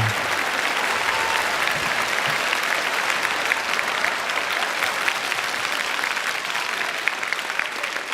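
Comedy club audience applauding steadily after a punchline, slowly fading toward the end.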